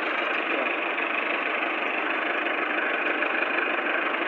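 Millat tractor's diesel engine running steadily.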